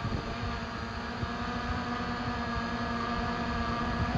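Steady hum of a drone's motors and propellers holding a constant pitch, with a low rumble of wind underneath.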